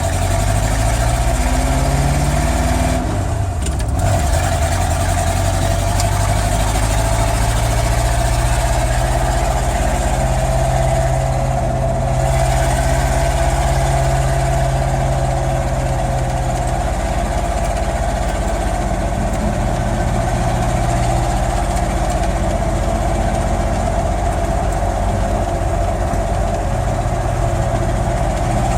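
Truck engine idling while not yet warmed up, so it does not idle as it normally would. Its speed shifts in the first few seconds, then holds steady.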